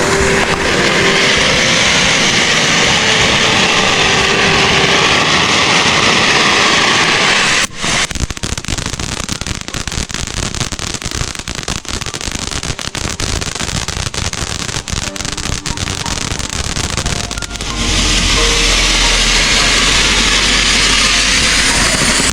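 Fireworks going off: a steady hiss of spraying sparks for about eight seconds, then about ten seconds of rapid dense crackling, then the hissing spray again.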